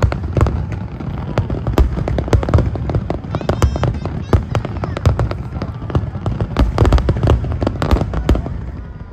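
Aerial fireworks bursting in quick succession: a dense run of sharp bangs and crackles over a deep rumble, easing briefly near the end.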